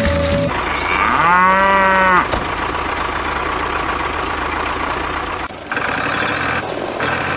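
A cow mooing once, about a second long, over steady background noise.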